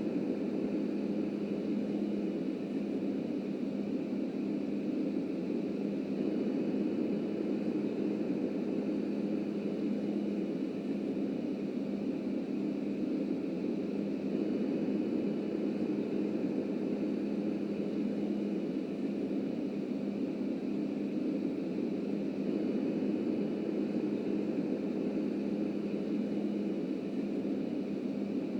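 Subway train running steadily on the track: a continuous low rumble with a steady hum, holding at an even level throughout.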